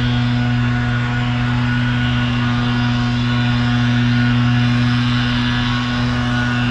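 A steady, unbroken low hum at a constant pitch with a noisy hiss over it, like an engine or motor running at an even speed.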